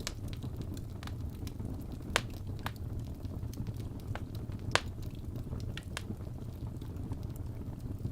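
Wood fire burning in a fireplace: a steady low rumble of flames with scattered sharp crackles and pops from the logs, two loud pops about two and five seconds in.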